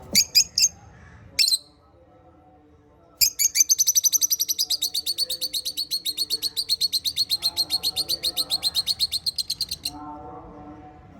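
Small pet parrots chirping: a few short high chirps in the first second and a half, then a long, rapid run of high chirps lasting about six seconds that drifts slightly lower in pitch. Fainter, lower chattering runs underneath.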